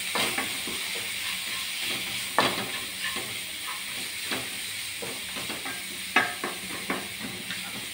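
Chopped onions and spice masala sizzling in a nonstick kadai while a spatula stirs and scrapes them: a steady sizzle with irregular scraping knocks of the spatula against the pan, the strongest about two and a half and six seconds in.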